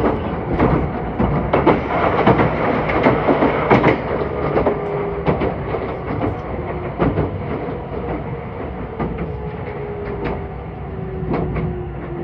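Meitetsu 2000 series μSKY electric train running, heard from inside the car: wheels click over rail joints, thickly at first and more sparsely later. From about four seconds in, a motor whine falls slowly in pitch as the train slows.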